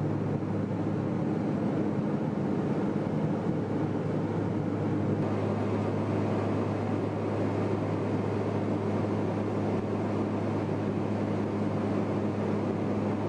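Steady engine drone with a low, even hum, unchanging throughout.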